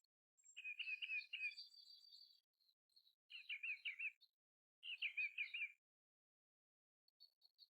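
Eastern bluebird singing: three short, soft warbled phrases, the first followed by a higher, thinner run of notes.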